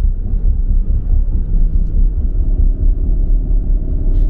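Car road noise heard inside the cabin at highway speed: a steady low rumble of tyres and engine, with a faint steady hum joining about two seconds in.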